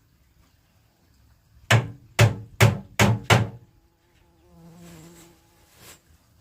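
Five quick hammer blows on wood, then a fly buzzing briefly near the end.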